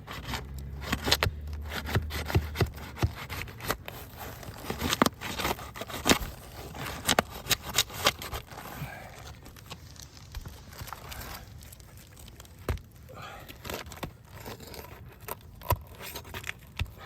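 Scraping and crackling of asphalt shingles being worked apart where they are stuck to each other, with many sharp, irregular clicks and ticks. The shingles are bonded by mat transfer, so they do not slide apart.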